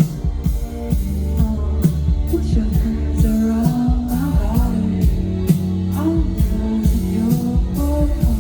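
Live electronic pop music through a festival sound system: a steady beat over deep sustained bass, with a voice singing from about two seconds in.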